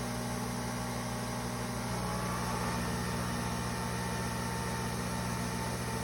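Nespresso Vertuo coffee machine running with a steady motor hum; its pitch shifts slightly about two seconds in.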